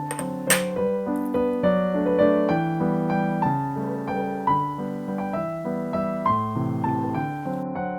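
Solo piano background music, a steady run of single notes and chords each ringing and fading, with a brief click about half a second in.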